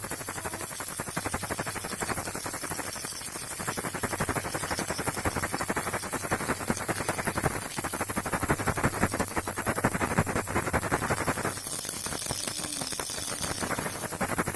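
Baby rattle shaken without pause: a dense, fast clatter of small beads clicking inside, with a change in its texture about three quarters of the way through.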